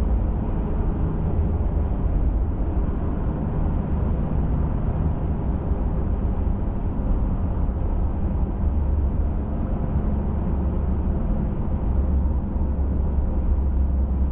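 Pickup truck driving on a trail, heard from inside the cab: a steady low rumble of engine and tyres, growing a little stronger in the last few seconds.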